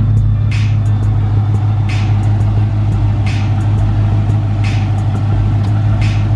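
Ex-police Dodge Charger's engine idling steadily, a low, even drone.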